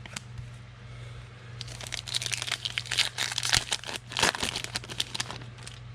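Crinkling of a trading card pack's foil wrapper being handled and opened, a dense crackle for a few seconds in the middle.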